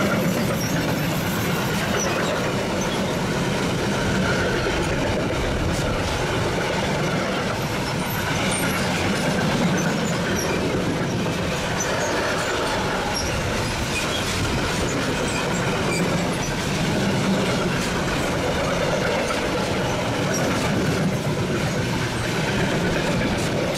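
Long freight train of covered box wagons rolling past close by: a steady noise of wagon wheels running on the rails.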